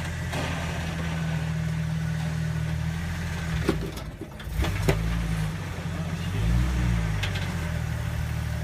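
Off-road rig's engine pulling steadily at low revs as it crawls up a rock ledge, revving up and back down about two-thirds of the way in. A couple of sharp knocks partway through.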